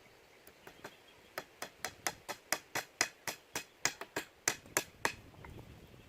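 A rapid run of about fifteen hard, sharp strikes, roughly four a second, as a tool hammers or chops at wood. They start about a second and a half in and stop about five seconds in.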